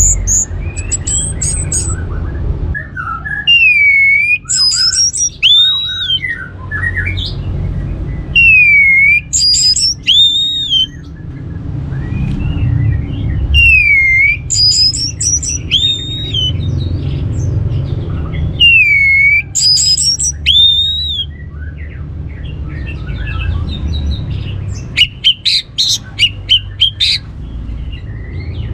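Orange-headed thrush singing: a whistled phrase of high notes and a dipping-then-rising whistle, repeated about every five seconds, with a quick run of short notes near the end. A steady low hum runs beneath the song.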